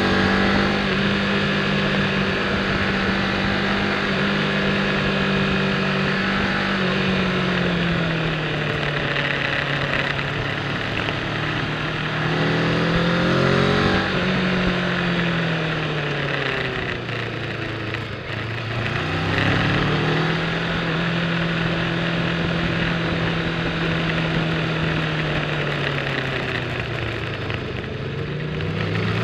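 Sport motorcycle engine heard from the rider's position while riding downhill, holding steady revs, then dropping off and climbing back up several times as the bike slows into bends and accelerates out of them, over a steady rush of riding noise.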